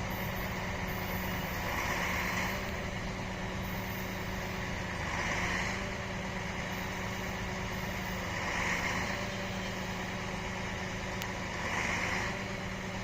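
Empty ore train rolling past slowly: a steady low hum under a noisy rush that swells about every three seconds, in step with the cars going by.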